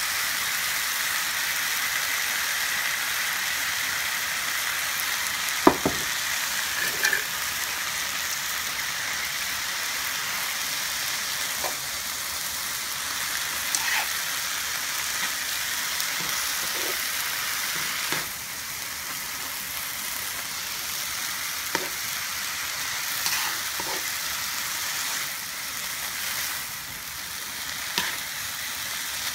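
Stir-fried egg noodles with cabbage and carrot sizzling in a hot pan, a steady hiss. Every few seconds the utensil tossing them clicks or knocks against the pan, loudest about six seconds in.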